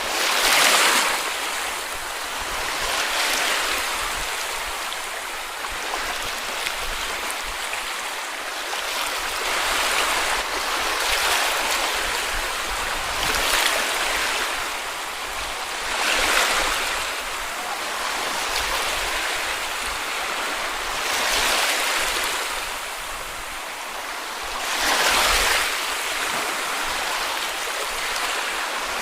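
Small sea waves washing onto a beach, each wave swelling into a hissing wash every few seconds over a steady background of surf.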